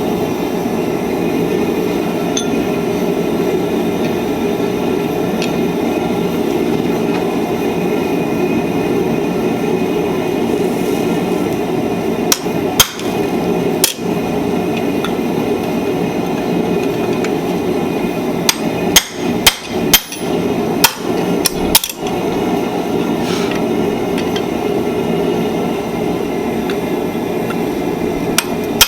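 Blacksmith's hammer striking steel on an anvil: two single blows a little before halfway, then a quick run of about seven blows about two-thirds of the way in, over a steady rushing roar.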